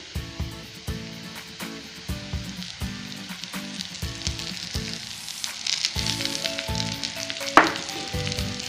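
Arbi (taro) tikkis sizzling and crackling as they shallow-fry in oil in a pan. More oil is poured in around the middle, and the sizzling grows livelier, with one sharp louder crackle near the end.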